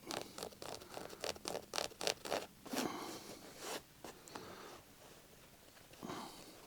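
Quick scratchy rips and ticks of old stitching threads being picked and pulled out of a car seat's leather and fabric cover. The ticks are thick for the first four seconds or so, then thin out to a faint rustle.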